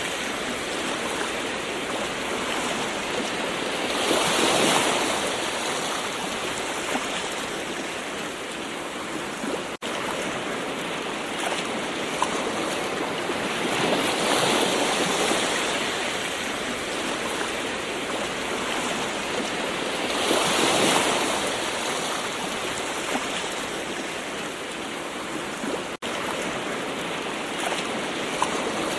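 Gentle ocean waves washing ashore in a steady hiss of surf, swelling and easing as each wave breaks, with three stronger surges spaced several seconds apart. The sound cuts out for an instant twice.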